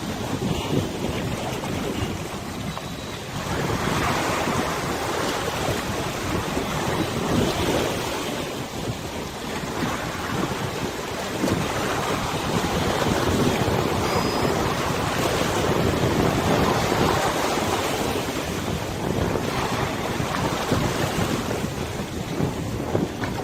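Wind gusting over open river water and buffeting the microphone, with water washing underneath. The noise swells and eases every few seconds.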